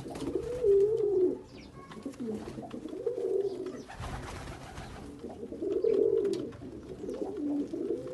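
Domestic pigeon cooing: four low, warbling coo phrases, each up to about a second long, spaced a couple of seconds apart.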